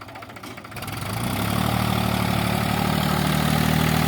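Diesel tractor engine that grows loud about a second in, then runs steadily at an even, low pitch.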